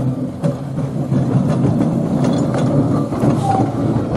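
Battery-electric tram running on rails: a steady rumble and rattle with scattered clicks and knocks.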